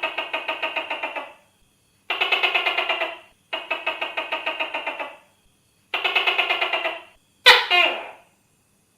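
Tokay gecko calling: four rattling bursts of rapid pulses, about seven a second and each over a second long, then a single sharp call falling in pitch near the end.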